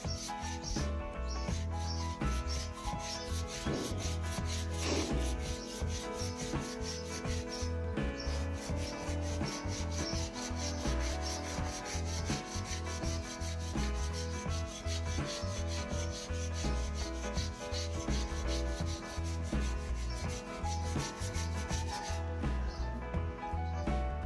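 Sandpaper rubbing steadily over a new wooden snooker cue shaft as it is sanded down to shape.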